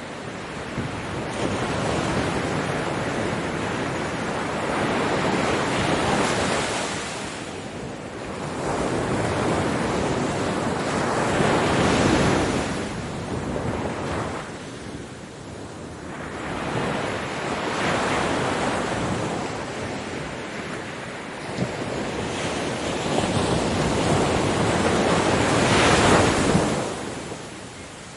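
Ocean waves breaking on a beach, the surf swelling and easing in repeated surges a few seconds apart, the biggest near the end.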